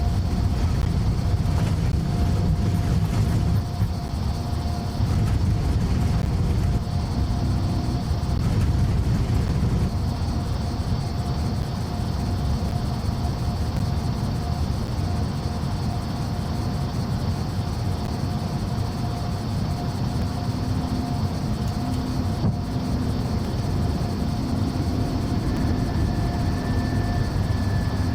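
Air Greenland Airbus A330-900neo's jet engines and airframe, a steady low rumble with a constant thin whine; two more steady tones, one lower and one higher, join near the end.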